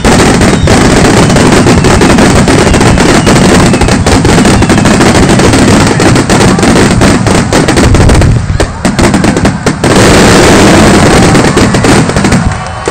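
A fireworks finale barrage: aerial shells bursting in rapid, overlapping succession, so densely that the bangs run together into one continuous, very loud rumble. It thins briefly about two-thirds of the way through, surges again, then eases off near the end.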